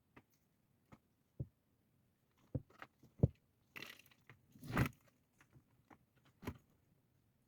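Scattered sharp knocks and clicks, with a longer crunching scrape about four seconds in that is the loudest sound.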